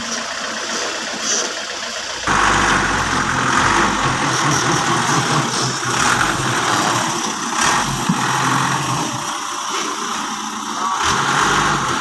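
Dump truck engine running, stepping up suddenly a little over two seconds in to a louder, rougher rumble that holds with some swells.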